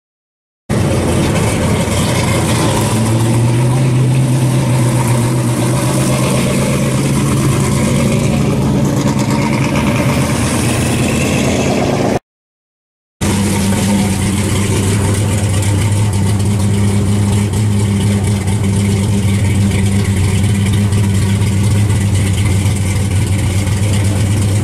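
1968 Chevrolet Chevelle SS pro-street V8 running loud, its note shifting as it drives for about eleven seconds. The sound cuts out for a second, then returns as a steady idle.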